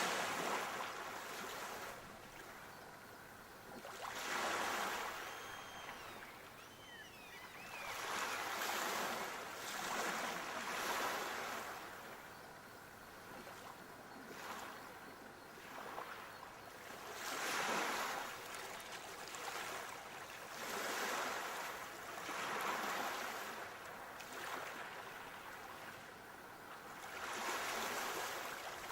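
Sea waves breaking and washing up the shore, each surge swelling and fading again every two to four seconds.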